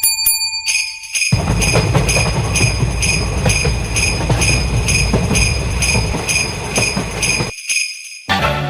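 Japanese railroad crossing bell ringing its repeated kan-kan, about two strikes a second, with a heavy low rumble underneath from about a second in. Both stop abruptly near the end.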